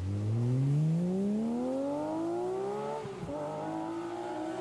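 Car engine accelerating hard, its pitch climbing steadily for about three seconds. It then shifts gear and pulls on at a lower pitch, rising slowly again.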